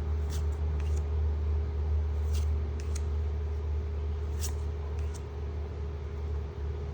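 Steady low hum with a fainter steady tone above it, under a few short, sharp clicks and rustles of trading cards being handled and slid past one another.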